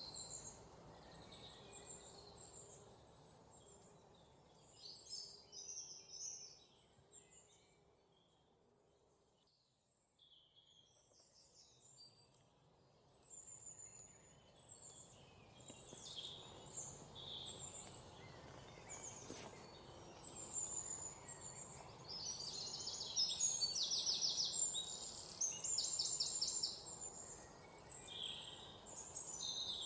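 Several songbirds chirping and whistling over a soft background hiss. The sound fades almost away about ten seconds in, then builds again into fast, rapidly repeated trilled notes, the loudest part, in the last third.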